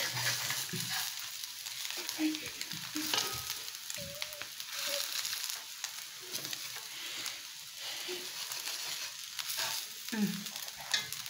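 Egg omelet sizzling in a frying pan, with a metal spoon scraping and tapping against the omelet and the pan in short strokes.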